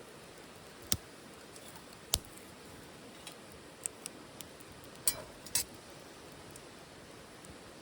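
Wood fire burning in a small titanium wood stove, a steady low hiss broken by a handful of sharp crackles and pops, the loudest about two seconds in and a pair about five seconds in.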